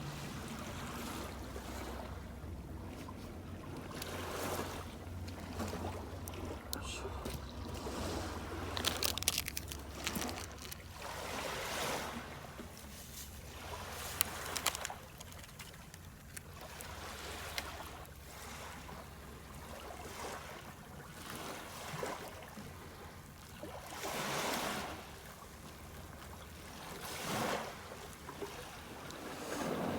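Small waves washing onto a sandy beach, swelling every few seconds, over the low steady drone of a passing boat's engine that fades out about halfway through. A few sharp clicks come in between.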